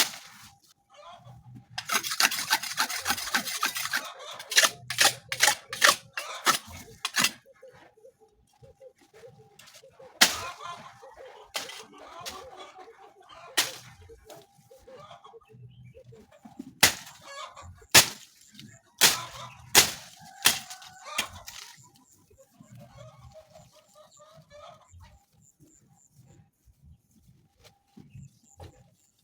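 Chickens clucking, with a scattered series of sharp knocks and clatters and a brief burst of rustling noise about two seconds in; the knocking thins out in the last few seconds.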